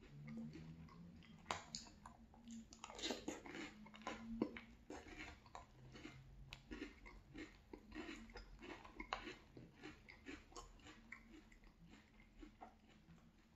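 Close-up chewing of crunchy French Toast Crunch cereal in milk: a long run of small, irregular crunches and mouth sounds.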